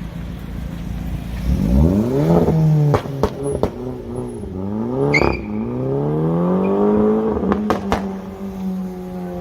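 High-performance car engine and exhaust accelerating hard. The pitch climbs, drops sharply about three seconds in and again about five seconds in as gears change, then climbs and levels off, with several sharp exhaust cracks along the way.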